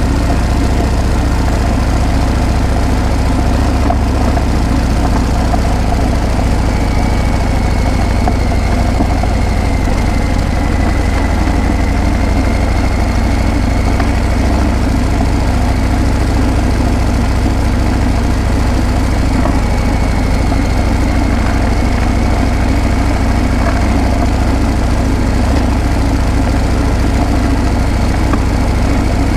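Harley-Davidson Breakout's V-twin engine and exhaust running steadily, with no revving or change in pitch.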